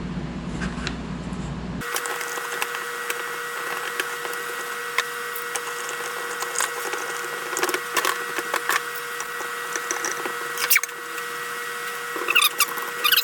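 Power sander running against wood: a steady whine with scattered scratchy clicks and crackles. It comes in abruptly about two seconds in, after a low hum.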